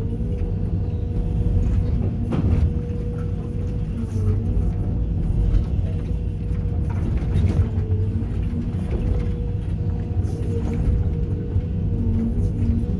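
Sumitomo SH210 hydraulic excavator working: its diesel engine runs steadily under load with a held hydraulic whine, and broken concrete knocks now and then as it is scooped.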